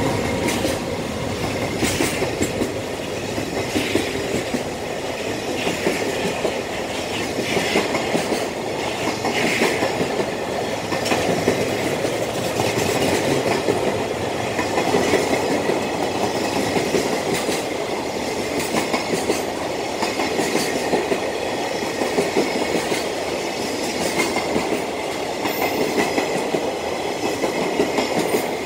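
Freight train's container flatcars rolling past, their wheels clattering over the rail joints in a steady clickety-clack that repeats every second or two as each pair of bogies goes by.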